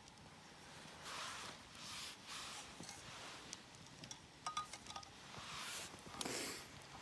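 Soft rustling handling sounds, with a few light clinks of small hard items, metal or glass, about halfway through.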